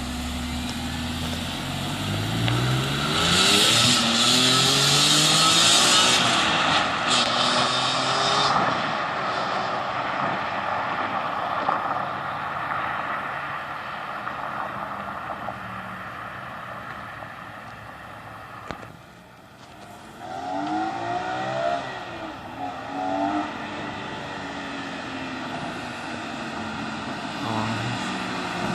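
2004 BMW E46 M3's 3.2-litre S54 inline-six on its stock exhaust, accelerating while driving, its pitch rising through the revs, with a loud rushing noise from about three to eight seconds in. The engine goes quiet as the throttle lifts a little before two-thirds of the way through, then climbs in pitch again through several quick rises.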